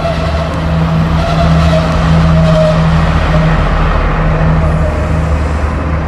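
Diesel intercity train passing along a station platform: a steady engine drone with the noise of the wheels on the rails.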